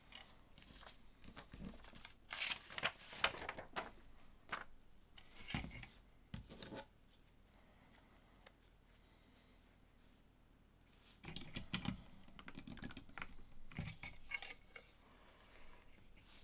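LEGO plastic pieces being handled and pressed together, with clicks and rustling in two busy spells and a quiet pause between them.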